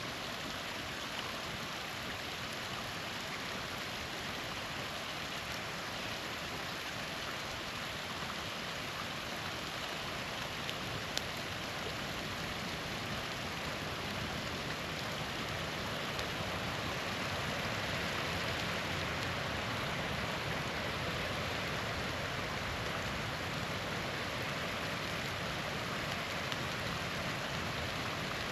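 A small waterfall's water rushing steadily, getting slightly louder partway through, with a few faint crackles and one sharper pop from a campfire about eleven seconds in.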